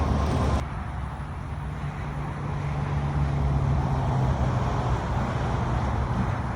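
A Willys Jeep CJ-3A's four-cylinder flathead engine running steadily with a low hum, swelling a little in the middle. A louder hiss over it cuts off sharply about half a second in.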